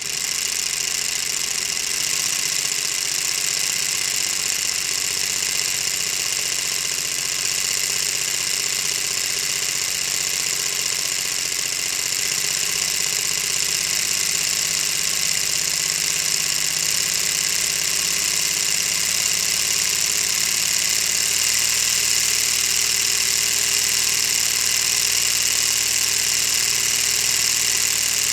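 Lego V-16 engine model running: the plastic pistons, crankshaft and gearing make a steady, even whirring clatter that starts abruptly.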